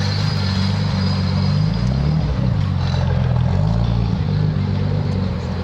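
A car's engine and exhaust running close by, its low pitch shifting up and down, loudest through the middle.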